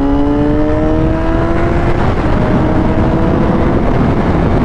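Honda CBR600RR's inline-four engine accelerating hard up the on-ramp. Its pitch climbs steadily for about two seconds, drops on an upshift, then climbs again, over heavy wind rush on the microphone.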